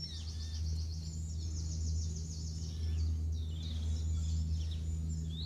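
Small songbirds singing high and quick, with a fast rapid trill over the first couple of seconds and scattered short notes after, over a steady low hum of background noise.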